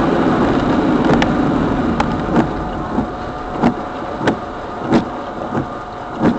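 Car noise, with a short sharp click repeating about every two-thirds of a second from about two seconds in.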